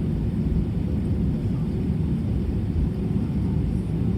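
Airbus A320 engine and airflow noise heard from inside the passenger cabin: a steady, deep rumble.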